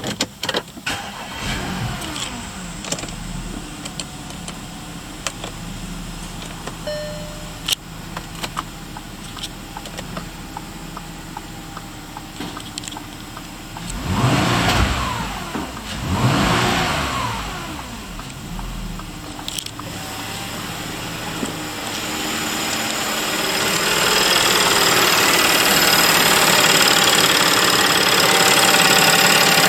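2009 Audi Q5 3.2 FSI quattro's naturally aspirated 3.2-litre V6 (CAL) starting and settling to idle. It is revved twice in quick succession about halfway through, each rev rising and falling. A steady rushing noise grows louder over the last several seconds.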